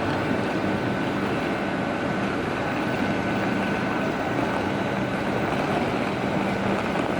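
Steady drone of a passenger train at a station platform, with a constant high whine over a low hum.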